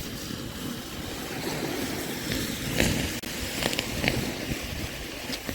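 Wind rumbling on the microphone over the wash of surf, with a few brief sharp clicks scattered through.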